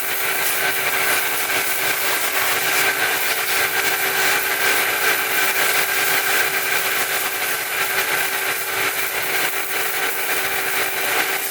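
A machine running steadily and unbroken, with a constant hiss and a few fixed whining tones throughout.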